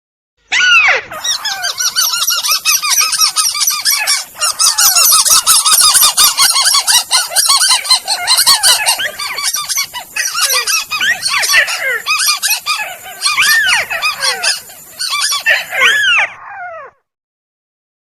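Recorded lure calls of rails (burung tikusan): many loud, overlapping, arching call notes repeated rapidly in a dense chorus. The chorus stops about a second before the end, leaving a short silence.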